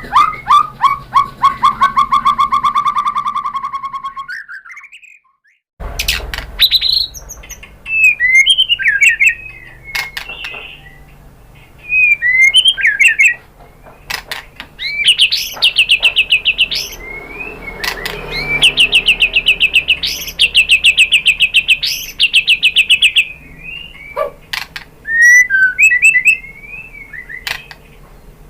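White-rumped shama (murai batu) singing: loud, varied whistled phrases broken up by long, fast rattling trills of repeated notes. The song cuts out briefly about five seconds in, then resumes.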